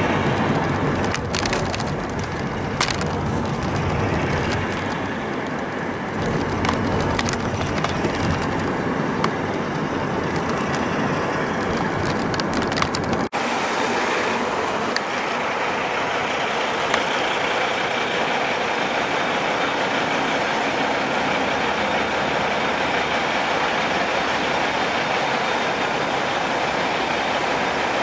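Heavy trucks running on the road, a steady engine and tyre rumble with scattered clicks and rattles. About halfway through it cuts abruptly to a steadier, less deep road noise.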